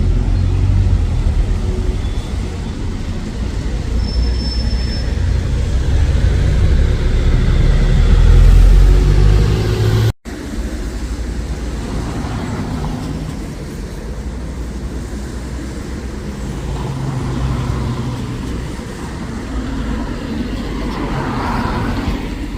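Bus and road traffic noise: a heavy engine rumble that builds to a peak about nine seconds in, then cuts off abruptly and gives way to quieter, steadier traffic.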